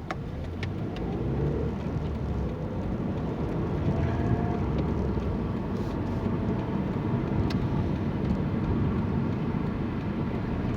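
Road vehicle driving, heard from inside the cab: steady engine and tyre rumble that builds over the first couple of seconds as it picks up speed.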